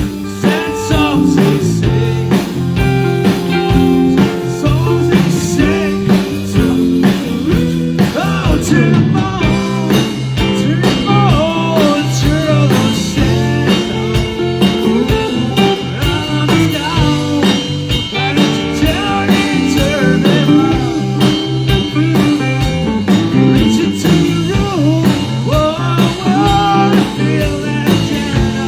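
Live band playing a blues-rock number: guitar lines bending over a stepping bass line and a steady drum beat.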